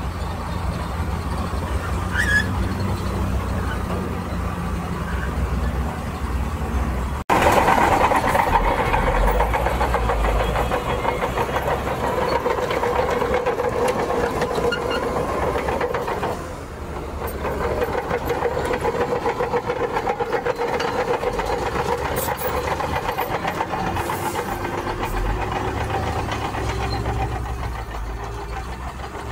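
Heavy diesel earthmoving machinery running and working. The sound changes abruptly about seven seconds in to a louder machine with a steady engine drone.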